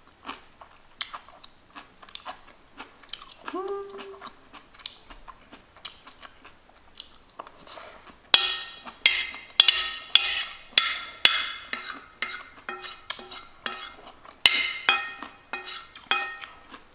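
Close-miked eating: wet chewing and mouth sounds, with a metal spoon and metal chopsticks clinking and scraping on a ceramic plate in two busy runs, about 8 and 14 seconds in. A short hummed 'mmm' comes about three and a half seconds in.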